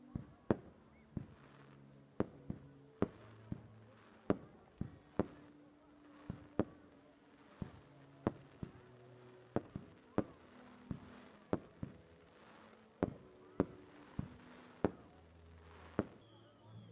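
Fireworks going off: a long irregular run of sharp bangs, about one to two a second, each with a short echoing tail.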